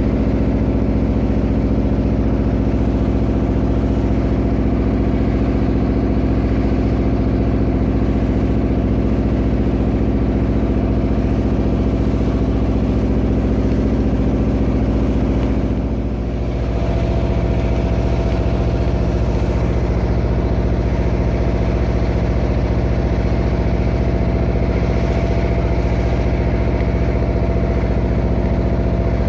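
Klotok river taxi boat's engine running steadily. About halfway through, the note dips briefly and shifts to a different engine speed, then carries on steadily.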